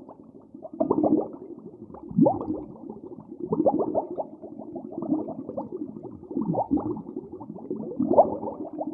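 An animal calling over and over in short, low-pitched cries, several falling in pitch, with the loudest near the start, about two seconds in, and about eight seconds in.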